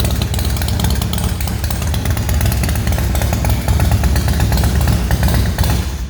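Harley-Davidson Dyna with an aftermarket Ultima big-inch V-twin engine running loudly and steadily, a rapid even beat of firing pulses over a deep low end, cutting off suddenly right at the end.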